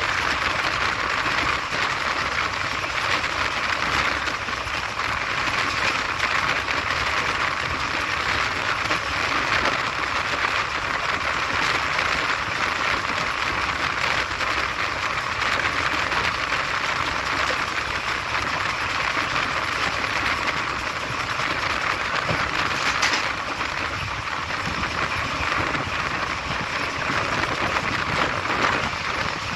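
Passenger train coach running steadily at speed: a continuous rumble and hiss of wheels on rails and rushing air, heard at an open coach doorway.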